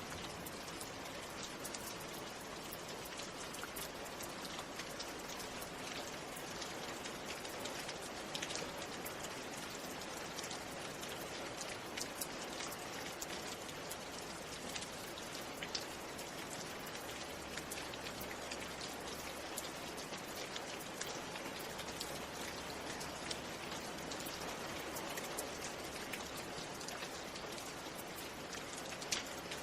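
Steady rain, with many separate drops ticking and tapping against a continuous hiss of falling water.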